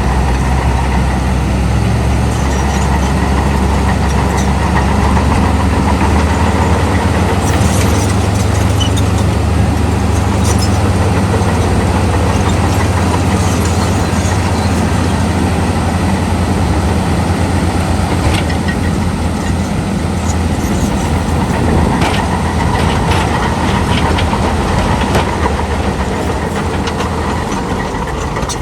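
Heavy diesel earthmoving machinery running steadily with a deep engine hum, and occasional sharp metallic clanks scattered through it.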